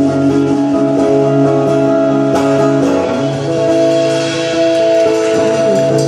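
Music: a guitar playing held chords, with new chords struck every second or so.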